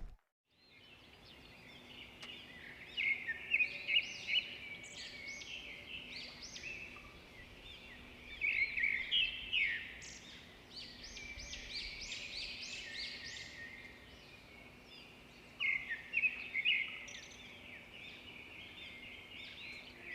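Songbirds chirping and twittering in quick, high notes, coming in bouts of a second or two with quieter chirping between.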